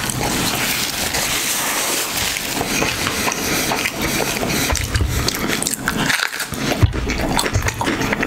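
Close-miked chewing and mouth sounds of a man eating a bite of bread and tri-tip, with a sharp click about seven seconds in.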